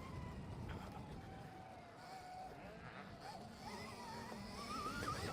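Stark VARG electric dirt bike's motor whining: the single tone falls slowly as the rider rolls off the throttle, then climbs again in wavering steps as he gives it gas toward the end, over a low rumble of tyres and track.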